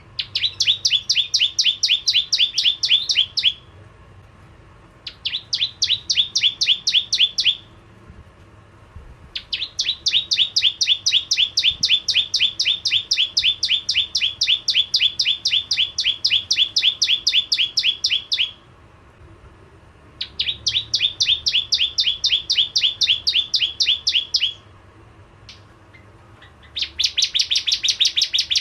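Bar-winged prinia (prenjak jawa) singing in five bursts of rapid, repeated high chirping notes, separated by short pauses; the longest burst, in the middle, runs about nine seconds.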